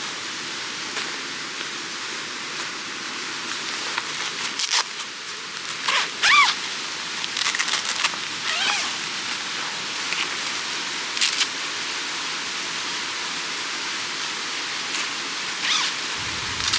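Mountain stream rushing steadily, with a few short clicks and a brief chirping call about six seconds in.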